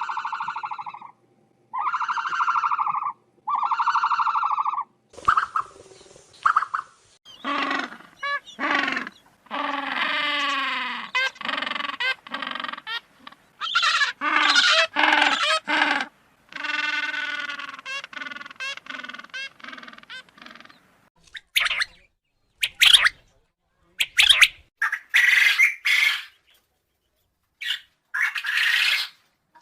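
A run of animal calls: three identical calls about two seconds apart, then a string of varied calls that slide up and down in pitch, and short high squawks near the end.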